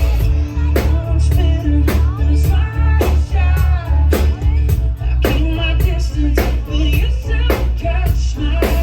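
Live band playing amplified pop-rock with a singer, heavy bass and a steady drum beat about two hits a second.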